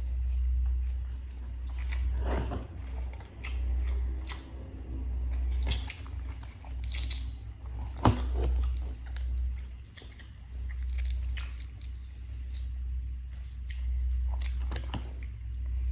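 A person biting and chewing crispy fried chicken close to the microphone, with repeated irregular crunches, over a low hum.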